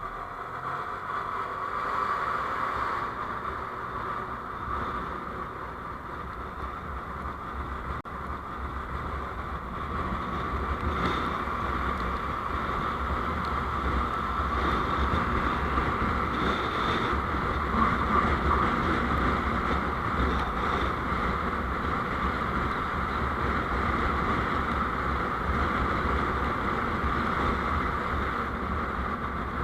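A vehicle on the road: steady engine, road and wind noise with a low rumble. It starts suddenly and grows louder over the first dozen seconds, then holds steady.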